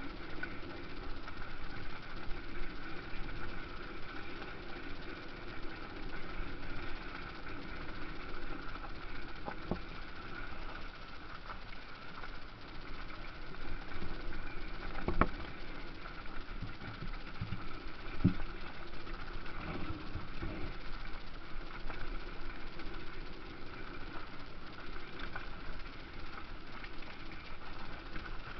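Motocross bike engines running steadily, with two sharp knocks a few seconds apart about halfway through.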